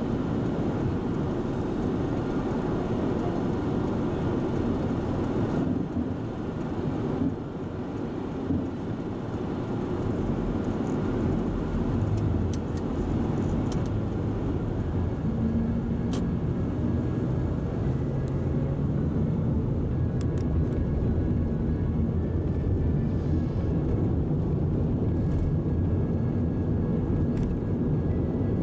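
Steady low vehicle rumble, like a car running, with faint steady engine tones in the second half and a few light clicks.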